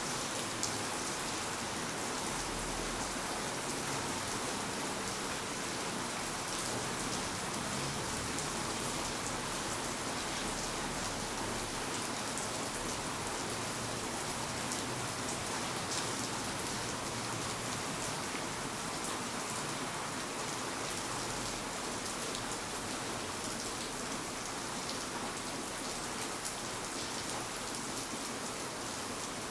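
Steady rain falling on hard city surfaces, an even hiss with many small drop patters.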